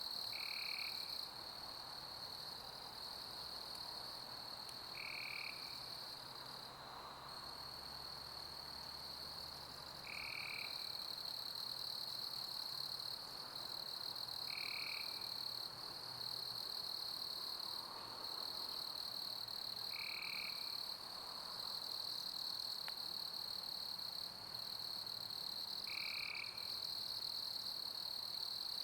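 Summer crickets chirping in a steady high chorus over an even pink-noise hiss, with a short lower call repeating about every five seconds, six times.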